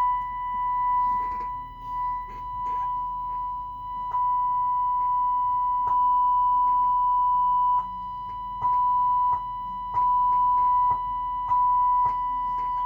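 Steady 1 kHz test tone played through a Marantz 4400 stereo receiver. Its level jumps abruptly up and down several times, with a sharp click at most changes, as controls or switches on the set are worked.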